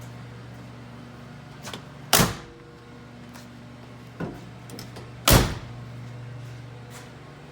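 Two heavy door thumps about three seconds apart, each just after a lighter click, over a steady low hum.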